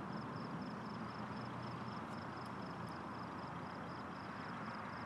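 Steady low background hiss of the night with a faint high-pitched chirping that pulses about four times a second, pausing briefly near the end; no thunder is heard.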